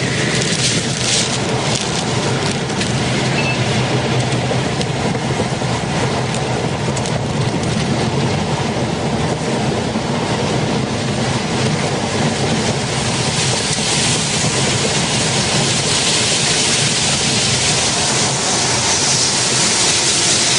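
Loud, steady roar of a tornado's wind. It cuts off suddenly at the end.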